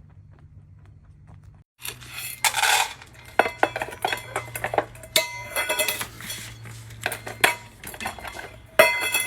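Faint ticking over a low hum, then, after a brief dropout about two seconds in, busy, irregular clinking and clattering of hard objects, like dishes and cutlery knocked together.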